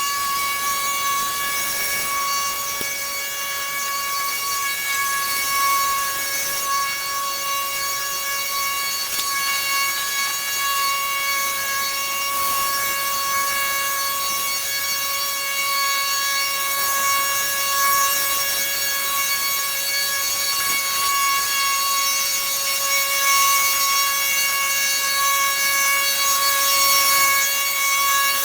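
A high-speed motor whining at one steady high pitch over a hiss.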